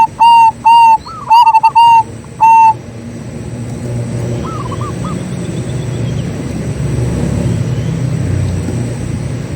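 Zebra dove (perkutut) cooing: a run of loud, short pitched coos in the first three seconds. Fainter short warbling bird notes follow about four and a half seconds in, while a low rumble swells and fades through the second half.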